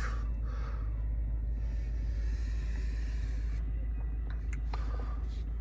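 2016 Ford F-150's 5.0-litre V8 idling: a steady low rumble heard from inside the cab, with a soft hiss for about two seconds midway.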